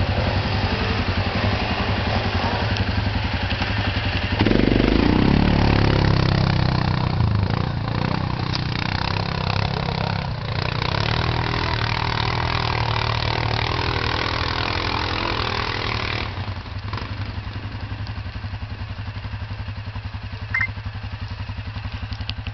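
ATV engine running, revved up about four seconds in, then settling to a quieter steady idle for the last several seconds.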